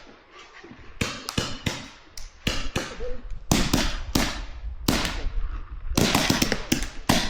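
Paintball markers firing a rapid, irregular string of sharp pops, more than a dozen shots, with a low rumble underneath from about halfway through.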